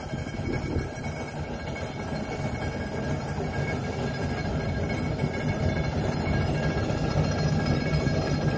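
Coal-fired steam locomotive of the Mount Washington Cog Railway running up the steep cog track. It is a steady low rumble that grows gradually louder.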